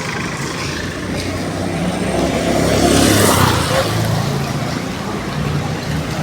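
A motor vehicle engine running steadily. It grows louder about three seconds in, then eases back.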